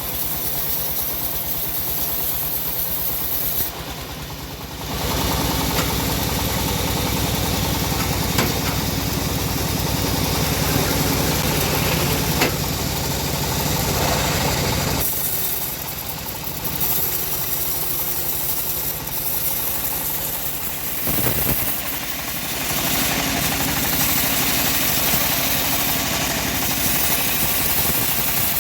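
Homemade bandsaw mill's engine running steadily. For two long stretches its sound turns heavier and louder as the blade works under load.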